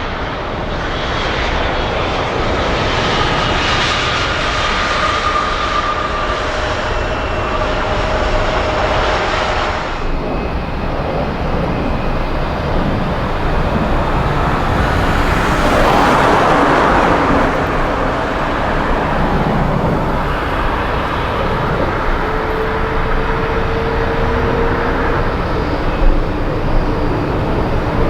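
Jet airliner engines: a loud, steady roar with a thin whine over it. About ten seconds in the sound changes abruptly to another passing aircraft, which is loudest around the middle.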